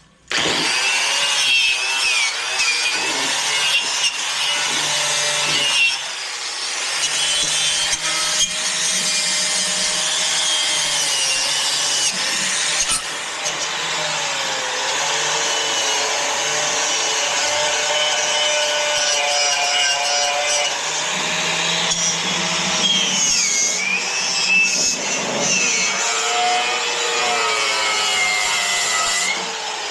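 Angle grinder with a cutoff wheel cutting vehicle body metal: a loud continuous grinding that starts suddenly, its motor whine dipping and recovering in pitch as the wheel is pressed into the cut.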